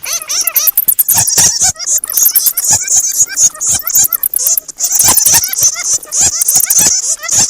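Bats squeaking and chattering in a dense, continuous stream of rapid high-pitched squeaks and clicks, typical of a roosting colony.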